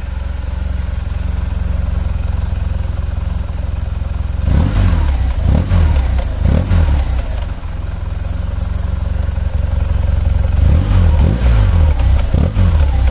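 2008 BMW R1200 GS Adventure's boxer-twin engine running through its stock exhaust: idling steadily, then blipped in a few quick revs about four and a half seconds in, dropping back to idle, and blipped again several times near the end.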